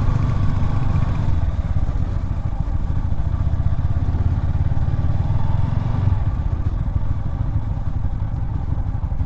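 Motorcycle engine running steadily at low revs while being ridden, a continuous deep rumble.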